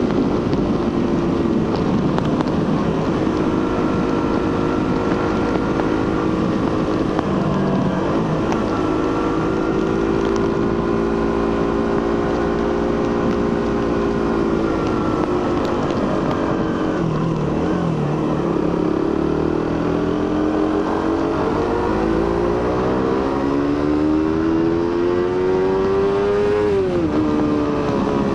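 Suzuki GSX-R150's 150cc single-cylinder engine running through its stock exhaust under way, the revs rising and falling. Near the end there is a long steady climb in revs, then a sudden drop.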